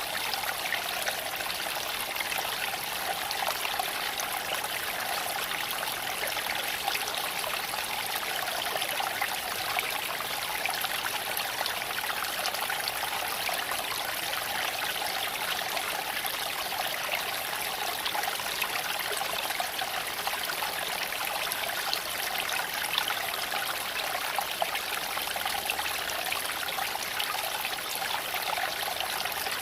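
Creek water flowing and babbling over stones, a steady rushing trickle with small splashes throughout.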